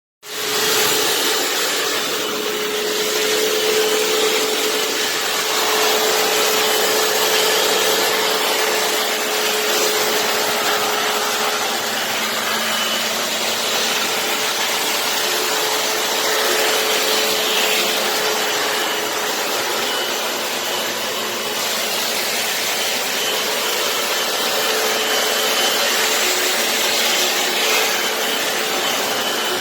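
Hoover FloorMate wet-dry floor cleaner running: a loud, steady motor and suction rush with a humming tone through it, starting abruptly.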